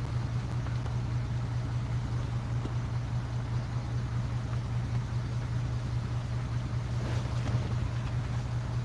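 Portable generator running steadily, a constant low engine hum.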